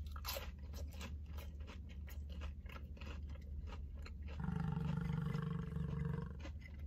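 Close-up crunchy chewing of a fried onion ring, many small crisp crackles in the first few seconds. About four and a half seconds in, a closed-mouth hummed "mmm" is held for about two seconds, over a low steady hum.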